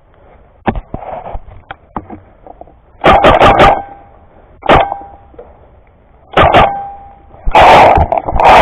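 Paintball markers firing: a few sharp single pops, then quick strings of shots, the densest near the end.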